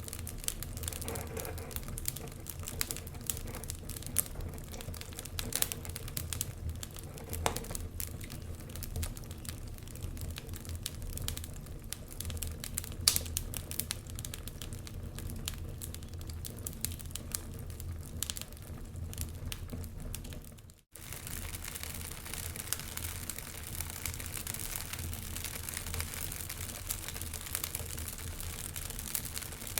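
Wood fire crackling, with irregular small snaps and one sharper pop about 13 s in, over a low steady rumble. The sound cuts out for a split second about 21 s in, as at a loop splice.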